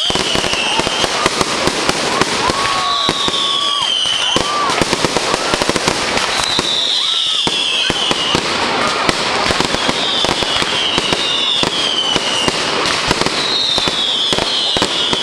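A firework display with dense, continuous crackling and popping. Short high whistles falling in pitch cut through every few seconds, about six in all.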